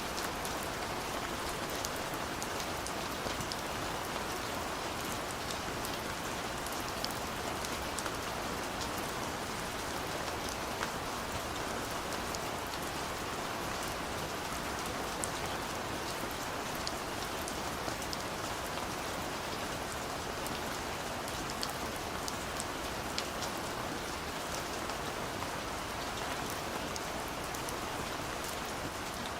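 Steady light rain falling, an even hiss with individual drops ticking sharply here and there.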